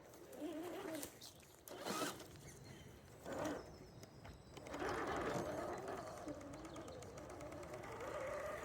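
HB R1001 Wilderness RC crawler's small electric motor and gearbox whining, the pitch rising and falling with the throttle. There are two brief scraping noises, about two and three and a half seconds in.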